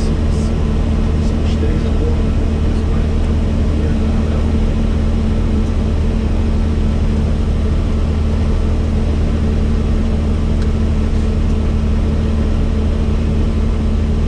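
Helicopter in flight: a steady, loud drone of rotor and engine with a deep hum and a few fixed low tones.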